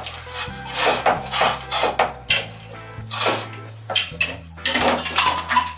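Repeated metallic clanks and scraping from an old metal water riser pipe being worked loose and pulled out of the floor, over background music with a low, stepping bass line.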